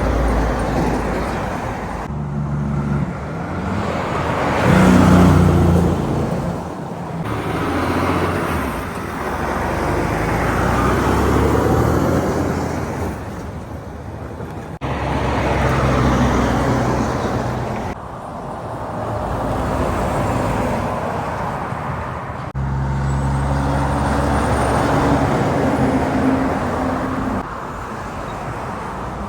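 Road traffic passing close by: several vehicles, trucks among them, go past one after another, each engine drone swelling and fading as it passes. The sound changes abruptly a few times.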